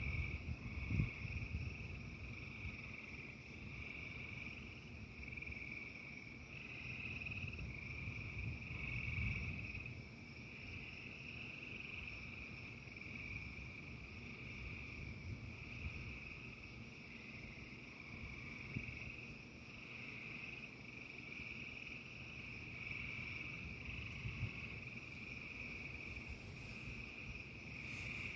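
A dense frog chorus: steady high trilling that swells and dips every second or so, over an irregular low rumble that is strongest in the first second or so.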